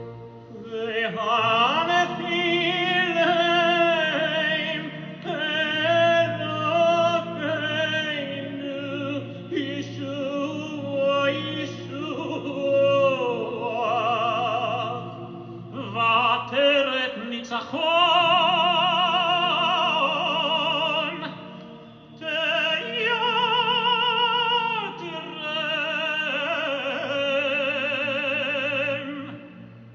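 Operatic solo singing with strong vibrato on long held notes, over an orchestral accompaniment.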